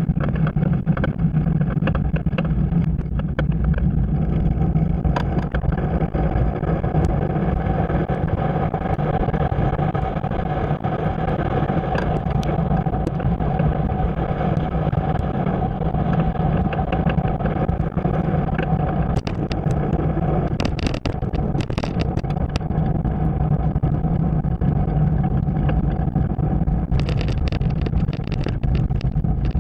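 Steady low rumble of a bike ride under way, with wind and road noise and scattered clicks and rattles that grow busier near the end.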